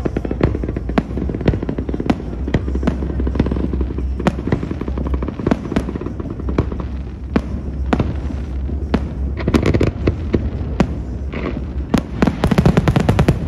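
Aerial firework shells bursting, with a string of sharp bangs at irregular intervals. Two dense, rapid volleys of bangs stand out, one about two-thirds of the way through and a louder one near the end.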